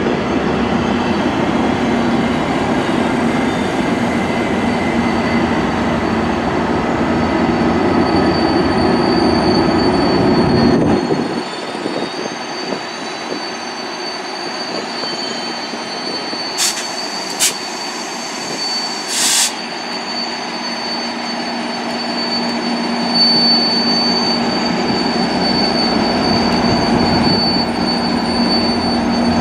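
Train rolling past with a steady, high-pitched squeal of wheels on the rails. The low rumble drops away suddenly about a third of the way through and builds again near the end, with a few short sharp clicks in between.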